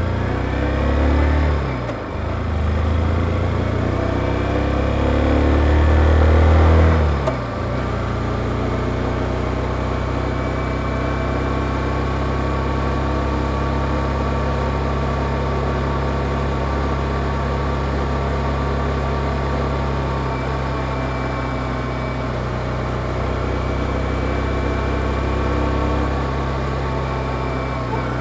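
Stock Yamaha XSR155 single-cylinder engine and standard exhaust accelerating. The revs climb, drop at a gear change about two seconds in, and climb again. About seven seconds in they fall sharply and then hold at a steady note for the rest.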